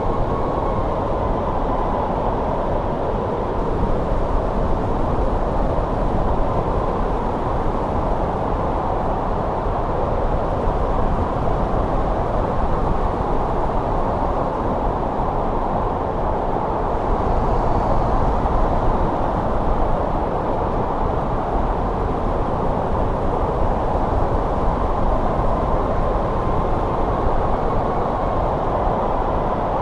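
Winter snowstorm wind rushing steadily, deep and even, with a faint high whistle that comes and goes.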